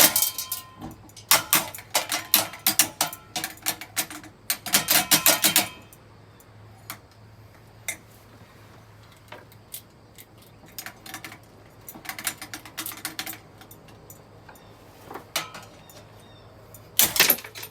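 A ceiling fan being smashed: rapid clattering and jangling strikes in two dense bursts over the first six seconds, scattered knocks after, and a sharp burst of hits near the end.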